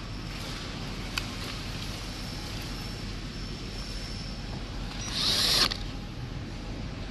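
Handling noises over a steady low background hum: a sharp click about a second in, then a short scraping rustle around five seconds in.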